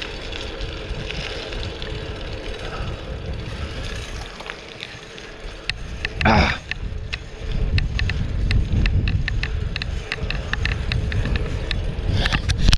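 Riding noise from a fixed-gear bicycle: wind on the action camera's microphone and tyres rumbling over pavement, with scattered clicks and knocks. About six seconds in, a brief warbling pitched sound cuts through.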